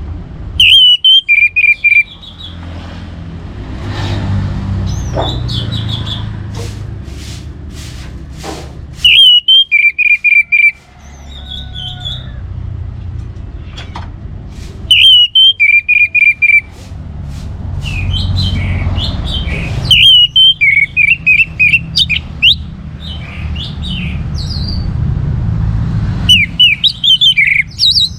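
Orange-headed thrush singing loud, quick phrases of sharp whistled notes, each phrase stepping down in pitch. Five phrases come roughly every five to six seconds, with a low steady rumble in the background between them.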